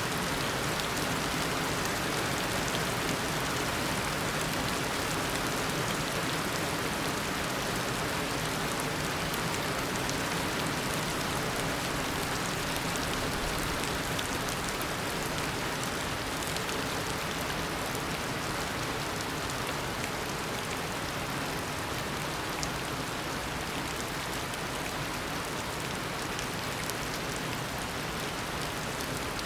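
Steady heavy rain falling on a tropical rainforest, an even hiss of a downpour with faint scattered drop ticks.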